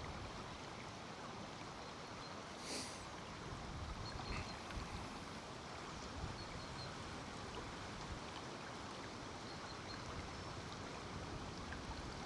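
River water running steadily, with wind rumbling low on the microphone. A brief faint hiss about three seconds in.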